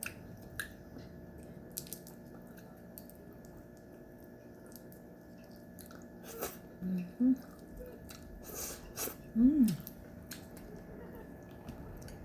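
Close-up eating of steamed crab: chewing and biting with scattered clicks of the shell, and a few short hums, the loudest stretch about eight and a half to nine and a half seconds in.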